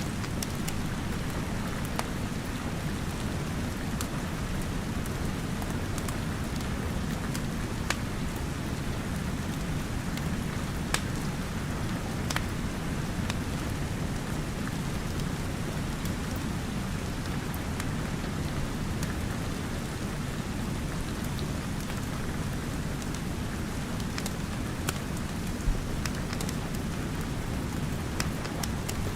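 Steady rain falling, with irregular sharp crackles and pops from a wood fire scattered through it.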